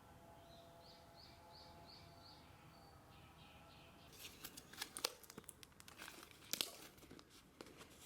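A small bird chirps faintly, in short rising notes about two a second. About halfway in, close crinkling and sharp clicks from handled gear take over and are the loudest sounds.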